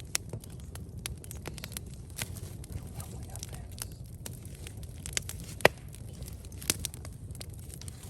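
Wood campfire crackling with irregular sharp pops, one loud snap near the middle, over a steady low rumble of the burning fire.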